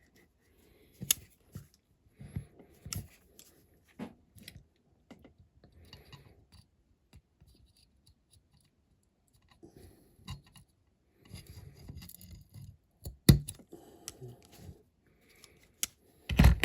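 An old pair of cutters snipping a stick down to length: a few sharp snips spread out, with scraping and handling of the small parts between them.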